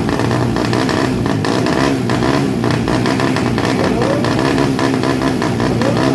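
Loud, continuous noise of 200cc drag-race underbone motorcycle engines revving at the start line, with a couple of rising revs in the second half.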